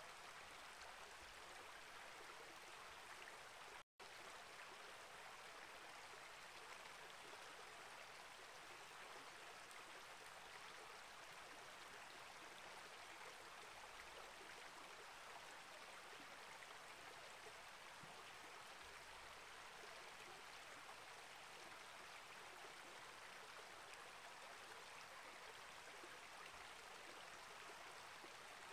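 Faint, steady flow of a small rainforest creek: water rushing and trickling over rocks. There is a split-second dropout to silence about four seconds in.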